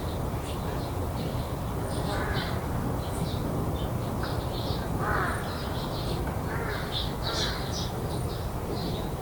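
Corvids calling with harsh caws several times, while small birds chirp high and briefly throughout, over a steady low background rumble.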